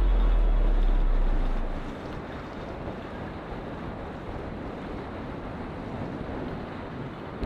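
Steady wind noise rushing over the microphone on a moving motorbike: an even hiss with no engine note standing out. A deep bass note from music fades out over the first two seconds.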